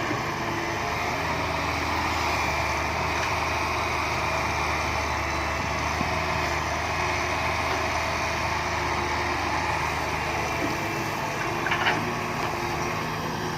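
Heavy work-vehicle engine running steadily; a low hum in it drops out about eleven seconds in.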